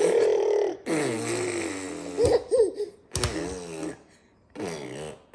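People making silly vocal noises: a series of drawn-out, wobbling voiced sounds, one held up to about a second in, a longer one with wavering pitch lasting until around three seconds, and a shorter one near the end.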